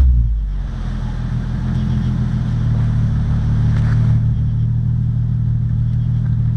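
2008 Nissan 350Z's 3.5-litre V6 idling steadily through an Invidia Gemini true dual cat-back exhaust with Berk high-flow catalytic converters. The note is low and even, settling right after a rev has dropped back.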